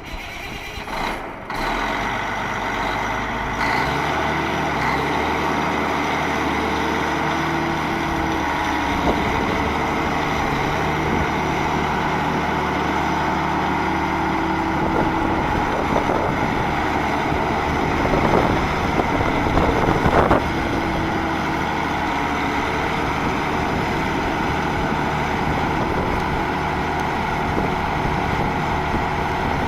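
Challenger MT955C articulated tractor's large diesel engine running steadily. A sharp knock comes about a second in, the engine note builds over the next few seconds, and a couple of brief louder surges come past the middle.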